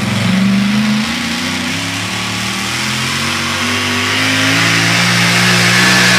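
An engine revs briefly, drops back, then climbs slowly and steadily in pitch and loudness as it gathers speed.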